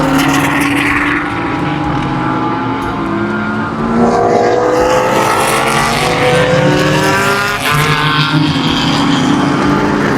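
Several sportscar racing engines accelerating on track, overlapping, each rising in pitch through its gears as the cars pass.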